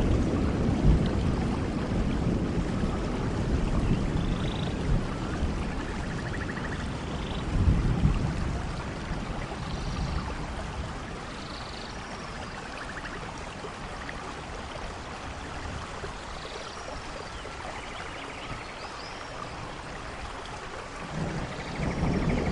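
Rainforest ambience: steady rain hiss with low thunder rumbles near the start, about eight seconds in and again near the end. Scattered short bird chirps and a few buzzing calls sound above it.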